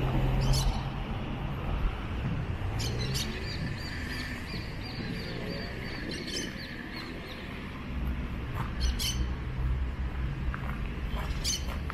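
Small birds chirping in park trees: a rapid series of short high notes from about three seconds in, lasting some four seconds, with scattered single sharp chirps around it. A steady low rumble runs underneath.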